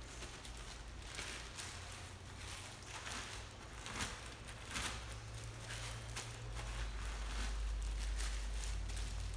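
Irregular soft rustling and crunching of Snyder's Hot Buffalo Wing pretzels being crushed into crumbs, with a low steady hum underneath that grows louder in the second half.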